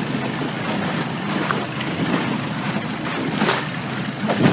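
Motorboat on a lake, its engine running low and steady under water sloshing against the hull, with wind noise on the microphone. Two louder swells of splash and wind come near the end.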